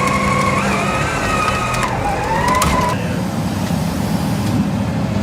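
Heavy truck engine under load, with a high whine that shifts in pitch and cuts off about three seconds in, leaving a steady low rumble.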